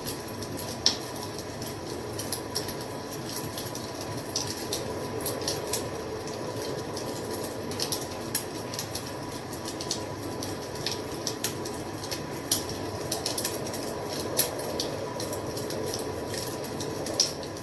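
Wood fire crackling: irregular sharp pops and snaps, a few louder than the rest, over a steady low rush of burning.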